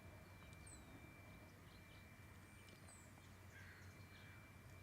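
Near silence: room tone with a faint steady hum and a few faint, brief high chirps.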